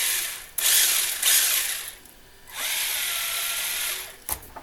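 Electric motor and gear drivetrain of a Tamiya Hotshot RC buggy, run in three throttle bursts of about a second each. The whine rises and then holds a steady pitch, and a few short clicks follow near the end.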